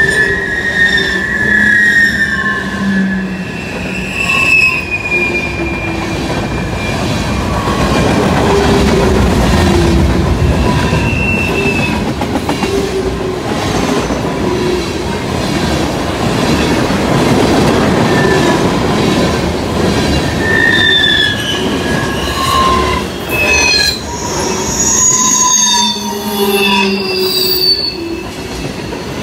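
Freight cars of a fast mixed freight train rolling past: a steady rumble of steel wheels on the rails, with many brief high-pitched squeals and ringing tones from the wheels.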